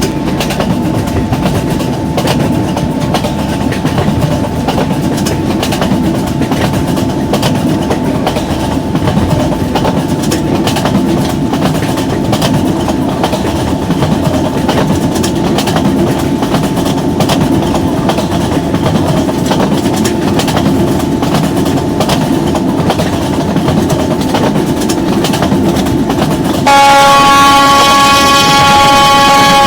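Train running fast on the rails: a steady heavy rumble with rapid clattering of the wheels. About three seconds before the end a loud train horn sounds, one chord of several notes held steadily.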